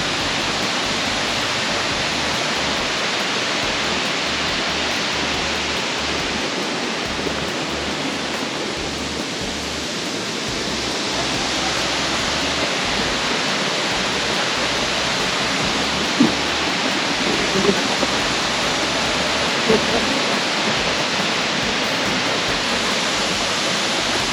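Waterfall pouring steadily through a cave opening, a constant rushing of falling water.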